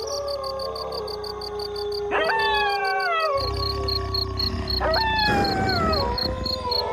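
A pack of wolves howling in chorus. Several overlapping howls rise sharply and then slide slowly down in pitch, with new howls coming in about two seconds in and again near five seconds, over one steady held howl. Insects chirp in a fast regular pulse behind them.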